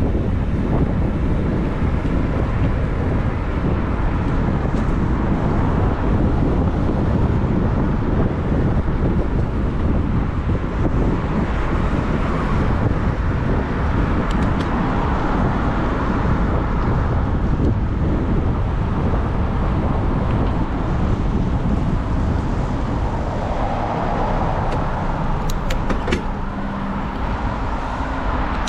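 Road traffic heard from a moving bicycle, with steady wind rumble on the microphone. Cars swell past about halfway through and again near the end.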